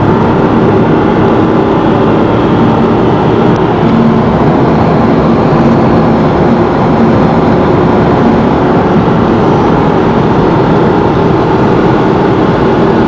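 A car engine running at a steady pitch with road and wind noise, held level without revving.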